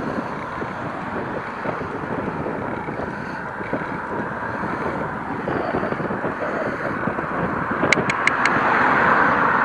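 Wind buffeting the microphone while cycling, with a steady rushing noise. About eight seconds in come four quick, evenly spaced clicks, and the noise swells near the end.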